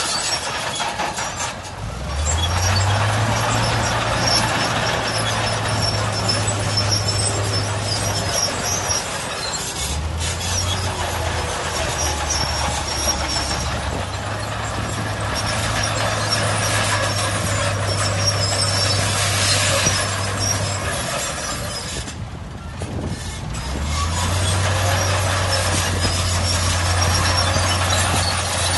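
Crawler bulldozer at work: heavy diesel engine running under load, with track and machinery noise. It eases off briefly about two seconds in and again about three-quarters of the way through.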